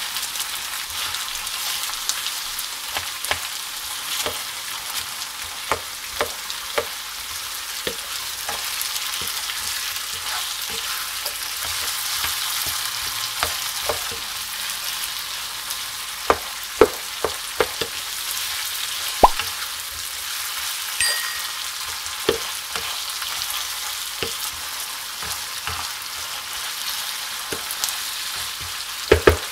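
Chicken pieces sizzling steadily as they fry in oil in a nonstick pan, with a wooden spatula stirring them and clicking against the pan now and then; the clicks come thickest a little past halfway and again near the end.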